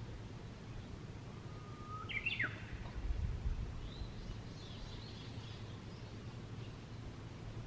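A wild bird calls once about two seconds in: a short held note that leaps sharply up in pitch. Fainter high chirps follow, over a steady low outdoor rumble.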